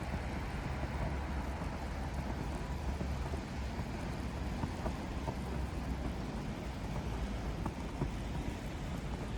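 Outdoor city ambience in a snowfall: a steady low rumble under a soft hiss, with a few faint scattered ticks.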